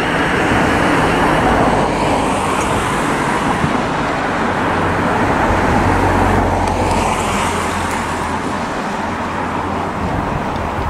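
Thameslink Class 700 electric multiple unit approaching along the line, a steady running noise of wheels and motors with a low hum.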